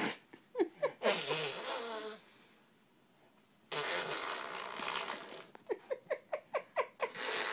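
Baby blowing raspberries: three long wet spluttering bursts with a quiet pause after the first, and a quick string of about eight short squeaks just before the last burst.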